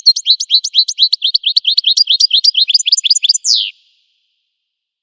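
Goldfinch song: a fast run of short sweeping, chirping notes, about eight a second. It ends with a longer falling note about three and a half seconds in.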